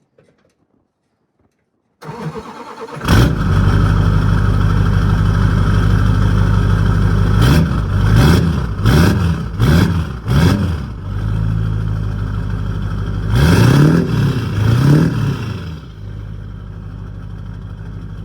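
LB7 Duramax 6.6-litre turbo-diesel V8 with a 5-inch exhaust cranking briefly and starting about three seconds in, then running and being revved in about five quick blips, two more a few seconds later. It settles to a steady idle near the end, quiet at idle.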